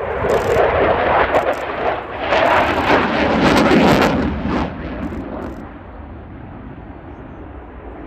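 Eurofighter Typhoon's two Eurojet EJ200 turbofans in afterburner, a loud crackling jet noise that swells to its loudest around three to four seconds in and then fades as the aircraft moves away.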